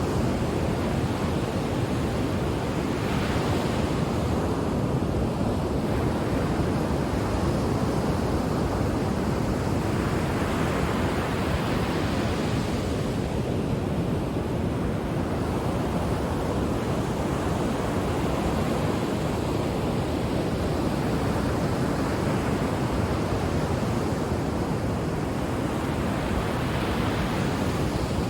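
Ocean surf: a continuous rumble of waves, with breakers swelling and washing in every several seconds.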